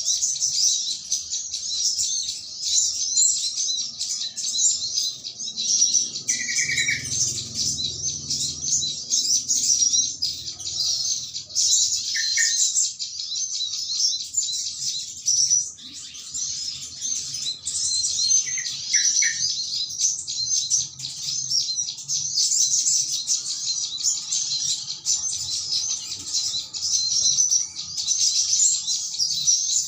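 Many small birds chattering together in a dense, unbroken high twittering, with a few short lower call notes breaking through about a third of the way in, near the middle and again a little later. This is a bird-trapping lure call meant to draw in other birds.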